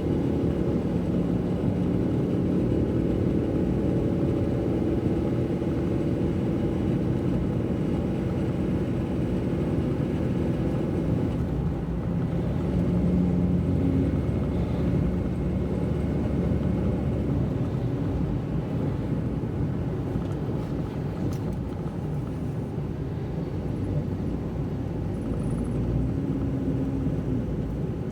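A car driving through city traffic: a steady low rumble of road and engine noise that eases slightly in the second half.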